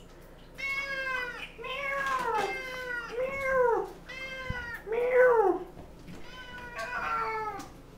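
Wet domestic cat meowing over and over, about seven long meows in a row, each rising and then falling in pitch: a cat complaining after a bath.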